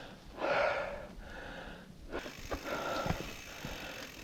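Mountain biker's heavy, gasping breathing on a steep uphill climb, one loud breath in the first second, the sign of an exhausted rider. After about two seconds come a few light knocks.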